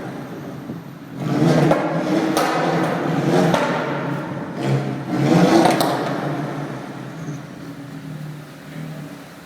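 Audi A4 1.8T turbo four-cylinder with a straight-back exhaust and no resonator, pulling in three hard bursts under boost with sharp cracks as it lets off, then settling to a quieter cruise.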